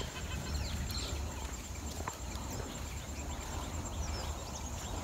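Birds calling in short, faint chirps over a steady low rumble.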